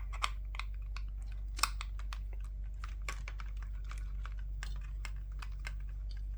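Irregular light clicks and taps of small plastic headset parts being handled and taken apart, with two sharper clicks in the first two seconds, over a steady low hum.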